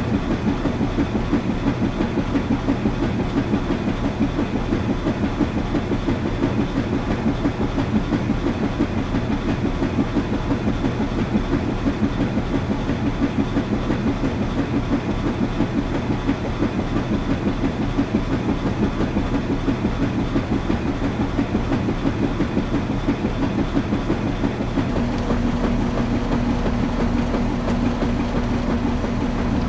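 Washing machine running with a fast, even, rhythmic churning. About five seconds before the end the pulsing gives way to a steadier motor hum with a steady tone.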